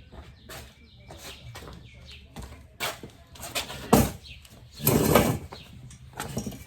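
A series of short knocks and scrapes from objects being handled. The sharpest knock comes about four seconds in, and a louder scrape follows about a second later.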